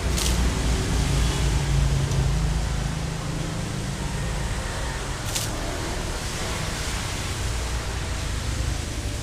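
Steady rain, an even hiss of noise. A low rumble underneath is strongest in the first few seconds and then fades away. Two brief high clicks come near the start and about five seconds in.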